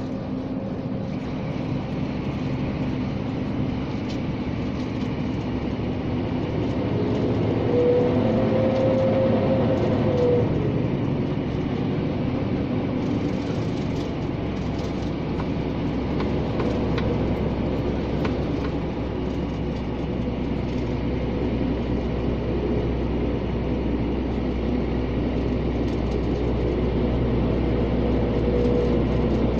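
Scania G460 truck driving on the highway, heard from inside the cab: a steady drone of its six-cylinder diesel engine and road noise, with a whining tone swelling briefly about eight seconds in.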